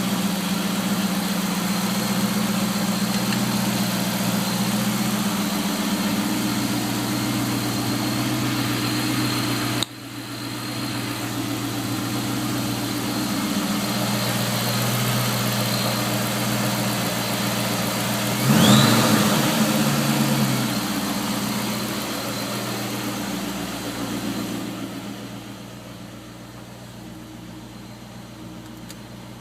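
2003 Cobra's engine idling steadily with an odd noise that the owner says starts when the AC is switched on and does not go away when the AC is switched off. A little past halfway the engine is blipped once, rising and then falling back to idle, and it is quieter for the last few seconds.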